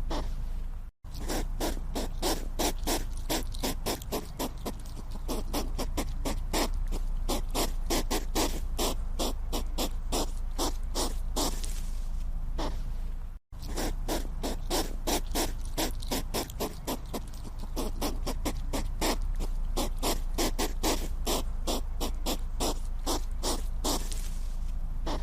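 Hedgehog making a rapid, even series of short sharp sounds, about five a second, over a low steady hum. The sound drops out for an instant twice.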